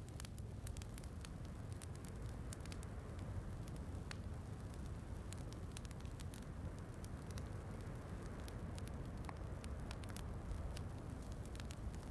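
Wood fire crackling in a fireplace, with many scattered small pops and snaps, over a steady low rumble.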